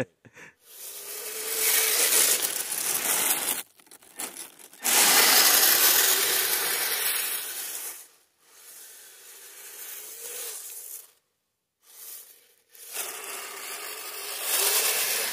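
Radio-controlled trucks grinding and scraping through crusty snow and ice, their tyres or tracks churning in several spells of a few seconds each, with the faint whine of the small electric motors rising and falling underneath.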